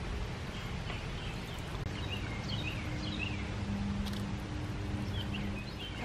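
Small birds chirping in short repeated calls over a steady outdoor background noise, with a faint low steady hum coming in about a third of the way through.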